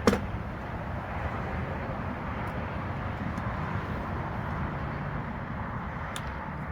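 Honey bee swarm buzzing: a steady hum of many disturbed bees in the air after the swarm is shaken from its branch. A sharp knock sounds right at the start.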